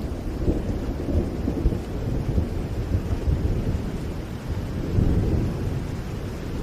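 Steady rain with a deep, continuous rumble beneath it, swelling briefly about five seconds in.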